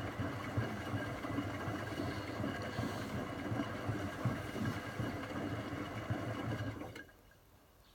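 Zanussi ZWC 1301 washing machine running on its final rinse, a steady mechanical hum and rumble that stops suddenly about seven seconds in.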